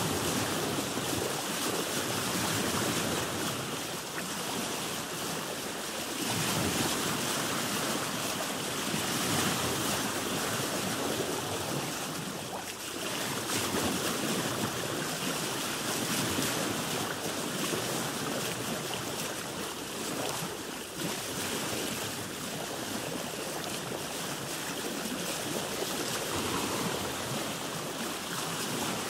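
Ocean waves and sea water washing around a boat: a steady rush of water that swells and eases gently.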